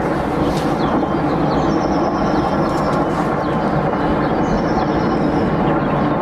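Rushing floodwater: a steady, loud roar of fast-moving water, with faint high chirps over it.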